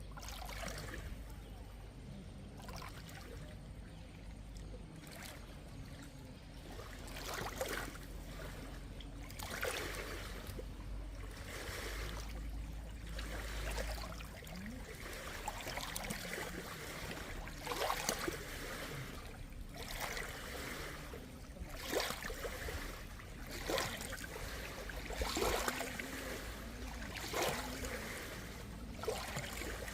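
Water trickling and gurgling, as in a small stream, with irregular splashy spurts throughout.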